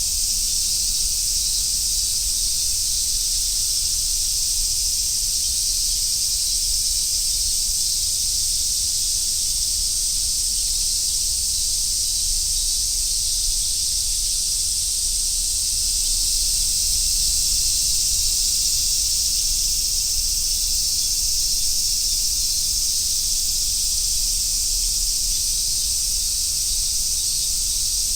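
A chorus of summer cicadas, such as large brown cicadas and robust cicadas, makes a steady, dense, high-pitched hiss that does not let up. A faint low rumble runs underneath.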